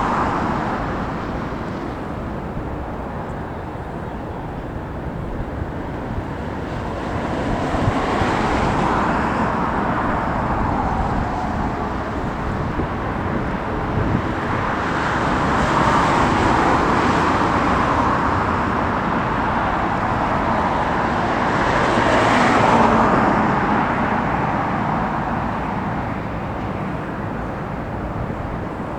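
Road traffic, with vehicles passing one after another, swelling and fading about eight, fifteen and twenty-two seconds in over a steady low rumble, and strong wind buffeting the microphone.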